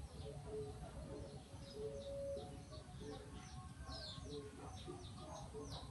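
Faint chirping of small birds, repeated short falling chirps that come thicker in the second half, over a steady low rumble.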